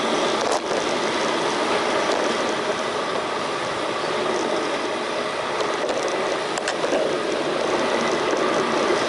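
Steady street traffic and road noise heard from a bicycle, with a few short sharp clicks or rattles.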